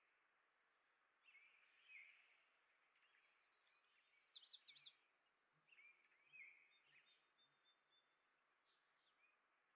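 Faint bird calls: scattered short chirps and quick twittering notes, with a brief thin whistle and a rapid run of falling notes around the middle, over a soft steady hiss.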